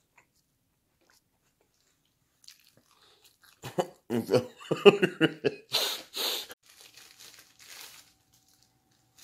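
A person biting into and chewing a sandwich close to the microphone. About three and a half seconds in comes a short run of loud crunching and mouth noises, then quieter rustling.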